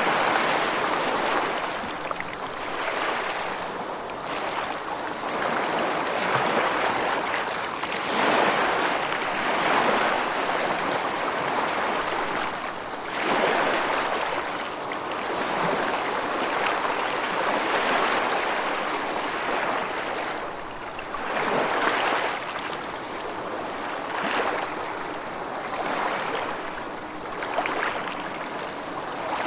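Water rushing steadily, rising and falling in irregular swells every few seconds, with no thunder heard.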